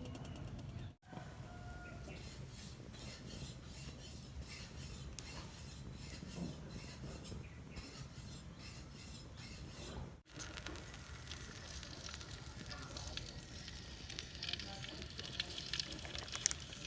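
Low, steady sizzling and crackling, as from a fire burning in a dug earth stove, cut off by two short gaps about a second in and about ten seconds in.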